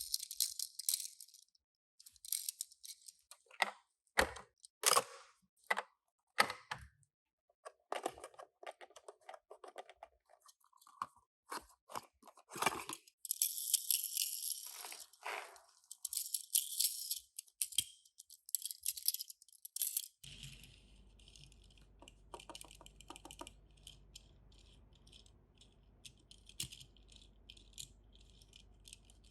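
Toy packaging being opened and handled by hand: plastic and cardboard crinkling and rustling, with many scattered clicks and taps. A faint steady low hum comes in about two-thirds of the way through.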